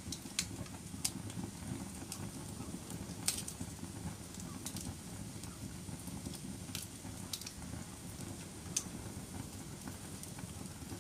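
Wood fire burning in a fireplace: a steady low rumble with sharp, irregular crackles and pops, one every second or two.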